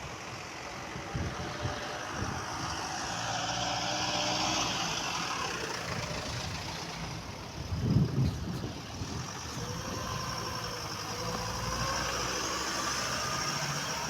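A motor engine running steadily under a wash of noise, with a brief louder swell about eight seconds in.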